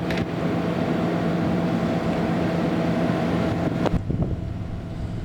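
1996 Ford Bronco's 5.8-litre V8 idling steadily, with wind noise on the microphone. A sharp knock comes about four seconds in, and the sound changes after it.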